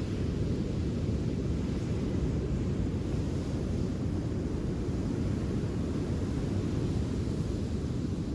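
Steady low rumbling noise with a fainter hiss above it and no distinct crackles, typical of wind buffeting the microphone.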